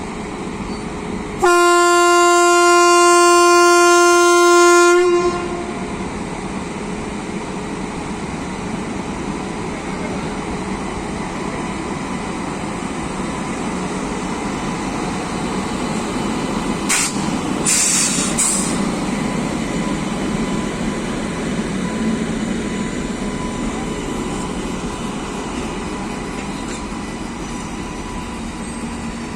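Indian Railways WAP-7 electric locomotive's horn sounding one long blast of about three and a half seconds, then the train departing with a steady rumble of locomotive and coaches rolling on the track. Two short hissing bursts about two-thirds of the way through.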